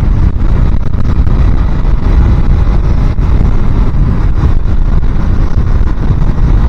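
Loud, steady wind buffeting on a helmet microphone while riding a small-engined motorcycle, with the engine running underneath.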